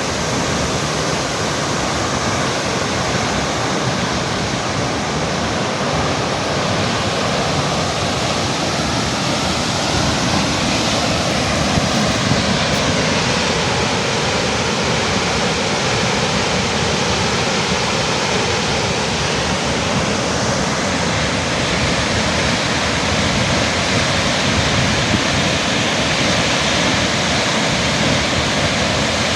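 Thomson's Falls waterfall: a steady, loud rush of falling water.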